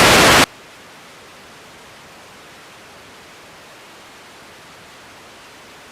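Air traffic control radio feed: a short loud burst of static as the pilot's transmission ends, then a steady hiss of radio static.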